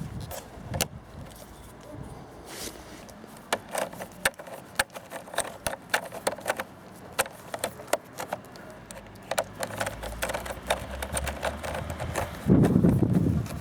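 Irregular sharp clicks and taps of hand tools and parts being handled during battery work on a motorcycle. Near the end a louder low rumble lasts about a second.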